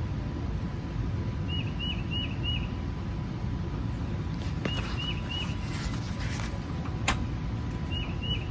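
A bird chirping in groups of four quick, short notes, repeated about every three seconds, over a steady low background rumble. A single sharp click comes about seven seconds in.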